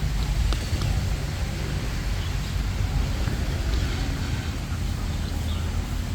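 Steady low rumble of a moving vehicle, heard from on board during a ride, with some wind noise.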